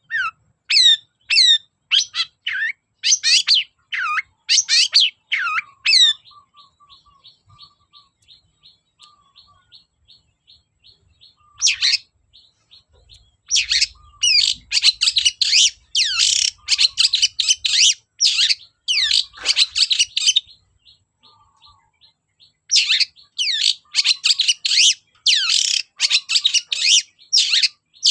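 Long-tailed shrike (cendet) singing. It opens with loud groups of sharp, downward-swept notes, drops to a faint, fast run of thin ticks, then breaks into two long spells of dense, rapid chattering phrases with a short pause between them.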